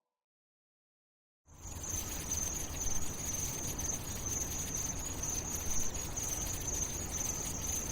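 About a second and a half of silence, then a steady high-pitched chirring like crickets or other insects begins over a low rumbling noise and carries on.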